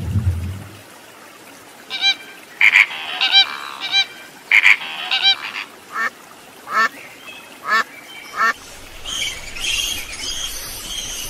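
Ducks quacking: a quick run of nasal quacks, then single quacks about every half second. Near the end a higher, noisier squeaking chatter of a fruit bat takes over. A low watery rumble fades out in the first second.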